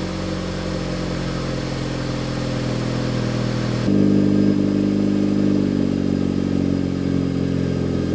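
Acura Integra Type S's turbocharged four-cylinder idling steadily through a Milltek Road+ stainless cat-back exhaust. About four seconds in, the exhaust tone steps up suddenly and gets louder, then holds steady again.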